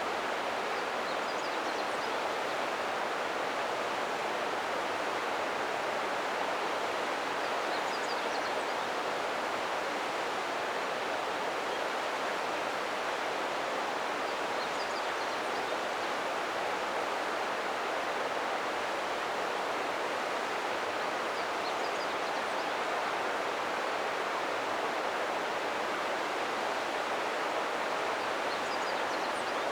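River water flowing in a steady, even rush, with a few faint short high chirps every several seconds.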